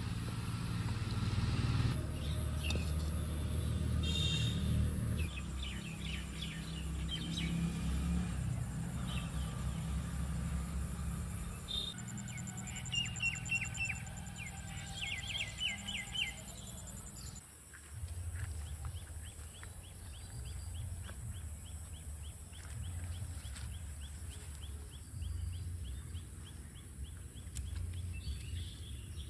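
Birds chirping on and off over a steady low rumble, outdoor rural ambience. After about 17 seconds a fast, evenly repeated chirping carries on to the end.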